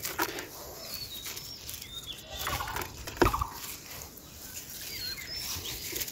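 Birds calling: several short high chirps, and a rapid rattling call about halfway through. A single dull thump comes just after the rattle.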